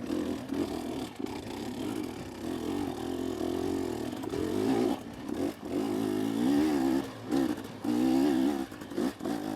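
A two-stroke dirt bike engine, the KTM 250SX, running under varying throttle: its pitch wavers up and down, with several short drops where the throttle is eased off and reopened.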